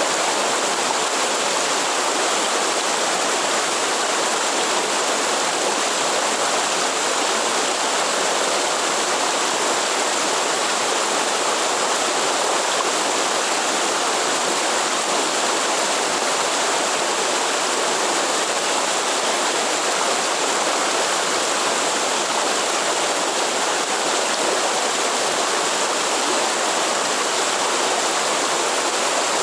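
Waterfall or fast-flowing stream rushing steadily, an even, unbroken wash of water noise.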